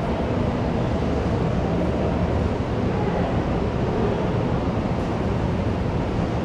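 Steady, indistinct babble of many people talking at once in a busy school canteen, with no single voice standing out.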